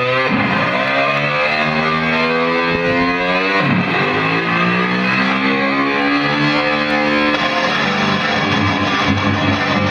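Blue Angels F/A-18 Hornet jets in afterburner passing low and fast on a formation takeoff. The jet noise swells and sweeps past twice, about half a second in and again near four seconds. Rock music with distorted electric guitar plays underneath.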